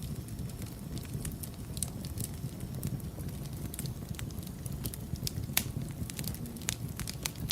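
Wood fire burning in a fireplace: a steady low rumble of flames with frequent irregular crackles and pops, one sharper pop about five and a half seconds in.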